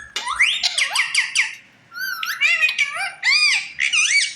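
Pet parrot chattering and squawking in a run of quick, high, arching calls, with a short break just before two seconds in.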